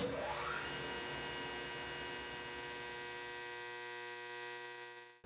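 An electrical hum made of many steady held tones, starting with a click and a brief upward sweep. It thins out near the end and cuts off suddenly.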